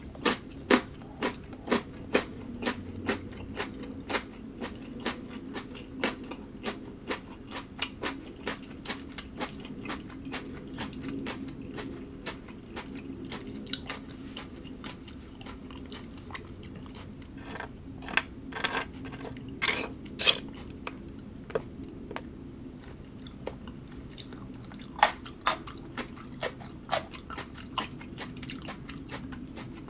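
A person chewing crunchy food: crisp crunches, about two a second at first, then more spread out, with a few louder bites around the middle and again later.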